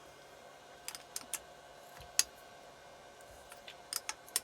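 Scattered sharp metallic clicks from a socket wrench working on the nuts that hold the cylinder head of a Keeway TX125 125cc engine. There are a few clicks about a second in, a louder single click about halfway, and a quick run of clicks near the end.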